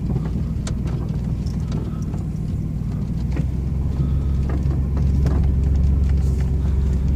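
2002 Chevy S10 ZR2 pickup's engine running steadily as the truck drives off, a low hum with a few light clicks, getting a little louder near the end.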